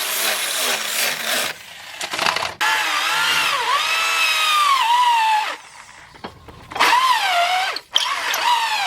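Power grinder working the steel of a machete blade: its whine dips and rises again and again as the tool is pressed on and eased off the metal, with two short pauses.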